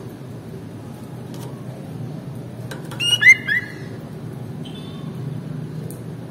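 Sooty-headed bulbul (kutilang) calling: a short burst of quick whistled notes with little pitch glides about three seconds in, then a few faint notes, over a steady low hum.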